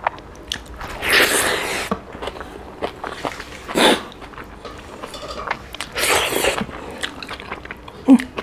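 Close-miked eating: wet chewing and mouth smacking of hand-eaten rice and octopus curry. Louder wet mouth sounds come about a second in, near four seconds and around six seconds, with small clicks of fingers working food on a wooden board in between.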